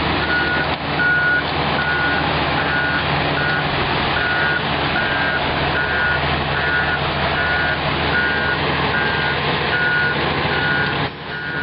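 Heavy 100,000 lb crawler tractor's diesel engine running steadily while its back-up alarm beeps about twice a second as the machine reverses.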